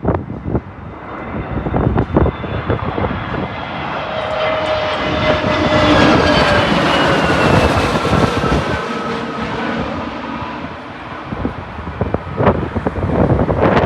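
Jet airliner passing low overhead on its landing approach, its engine whine swelling to a peak about halfway through and falling in pitch as it goes by. Gusty wind buffets the microphone at the start and near the end.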